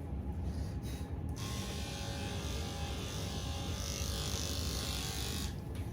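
Electric pet clippers running with a steady hum; from about a second in until near the end a bright hiss rises over it as the blades cut through the cat's long fur during a sanitary clip.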